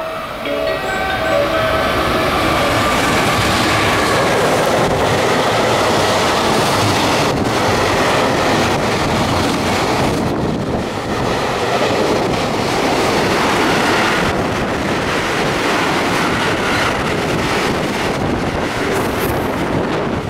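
Container freight train hauled by an EF210 electric locomotive running through a station without stopping. The locomotive goes by at the start, followed by a long string of container wagons rolling past with a steady, loud rush of wheels on rail.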